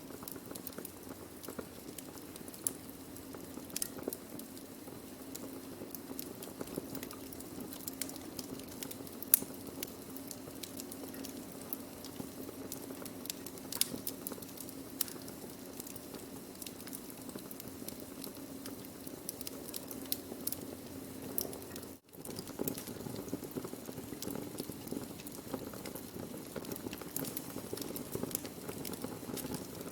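Wood fire burning, with irregular sharp crackles and pops over a steady low rush of the flames. The sound drops out for an instant about two-thirds of the way through.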